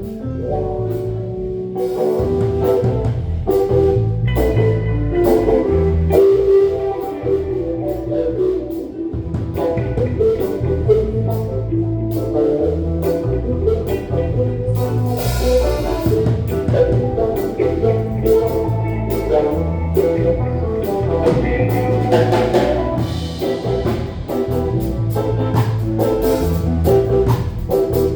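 Live band music with electric guitar, bass and drum kit playing a steady groove.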